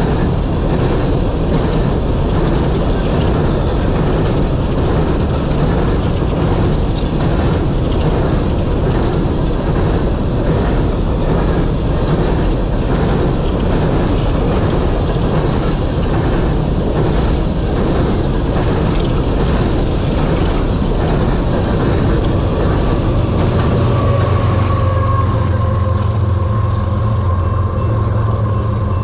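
Coal train cars rolling past, their wheels clicking over rail joints about twice a second under a steady rumble. Near the end the wheel noise thins out and a diesel locomotive's steady engine drone takes over, most likely the rear distributed-power unit.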